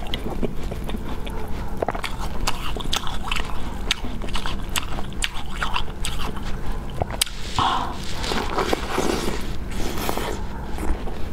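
Close-miked biting and chewing of a crispy deep-fried battered piece of food: a quick irregular run of crunches.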